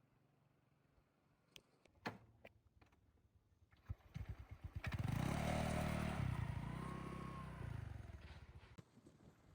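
Motorcycle engine that comes up from about four seconds in, is loudest around the middle, then fades away, after a few sharp clicks about two seconds in.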